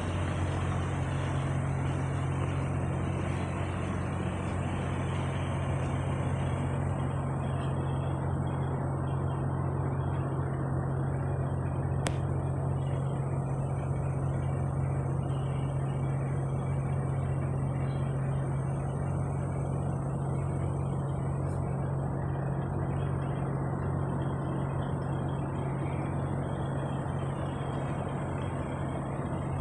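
Semi-truck's engine running with a steady low drone under a wash of road noise, with one sharp click about twelve seconds in.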